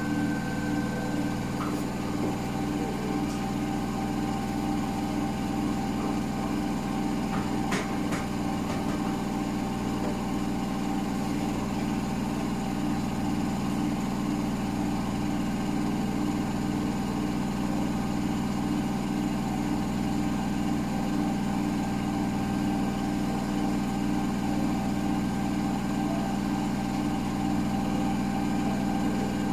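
Hotpoint Smart Tech 9 kg washing machine running with a box of dog food tumbling in its drum: a steady motor hum with a regular pulse, and a single knock about eight seconds in.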